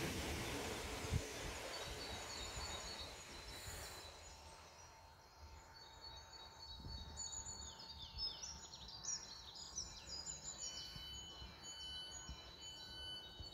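Southeastern Networker electric multiple unit pulling away along the platform, its running noise fading over the first few seconds. Then small birds sing with quick high chirps over faint background noise.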